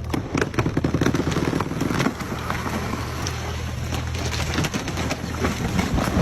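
An engine running steadily, with many sharp cracks and snaps over it, densest in the first second and again around two seconds in.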